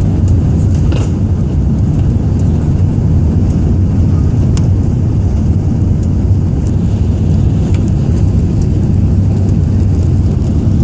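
Steady low rumble with a constant hum inside the cabin of a Singapore Airlines Airbus A380, with a few faint ticks.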